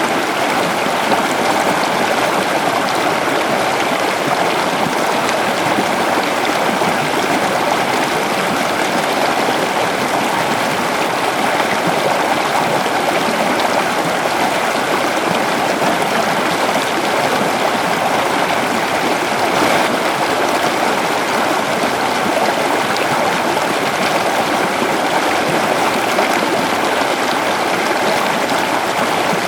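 River water flowing over rocks, a steady rushing and babbling with no break.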